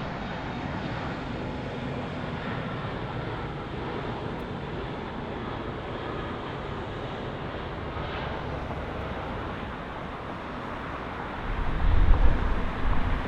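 Boeing 757 jet engines making a steady noise as the airliner comes in to land. A loud low rumble rises near the end.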